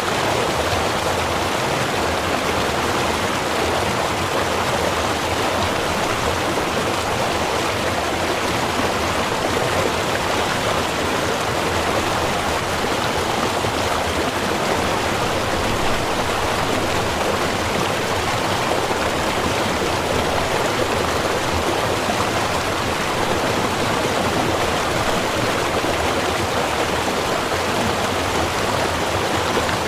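Small river running: a steady, unbroken rush of flowing water.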